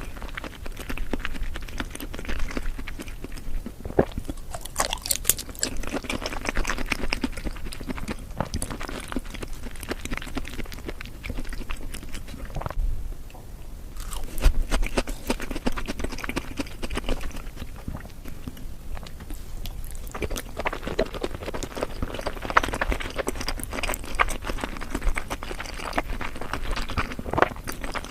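Close-up eating sounds of raw salmon sushi and shrimp sashimi being chewed: a continuous run of small mouth clicks and smacks, easing briefly about halfway through.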